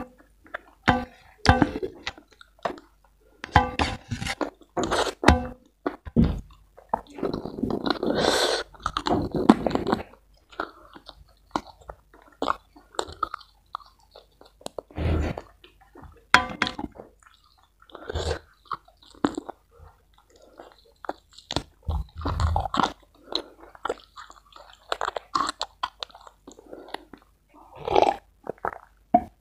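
Close-miked chewing of fried chicken and rice: wet smacking chews and some crunching, coming in irregular bursts with short gaps between. Near the end, a sip from a glass of tea.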